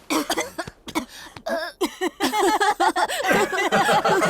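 Animated characters' voices making short wordless vocal sounds in quick succession, with a few sharp clicks.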